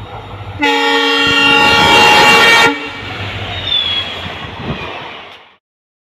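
ALCO WDM-3D diesel locomotive sounding its horn in one steady blast of about two seconds, over the low rumble of its engine as it crawls past with its train. The train noise runs on after the horn and cuts off abruptly near the end.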